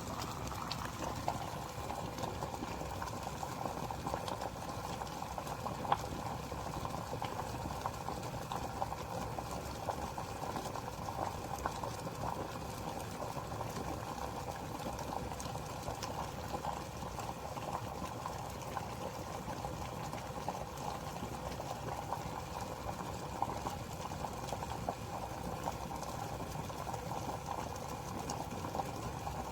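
Hamilton Beach glass electric kettle heating water at a steady boil, a continuous bubbling hiss with many small crackles.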